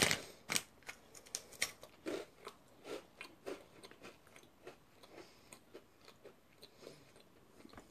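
A person biting and chewing a small, flat, crisp biscuit, a run of short crunches that grows sparser and fainter as the mouthful is chewed down.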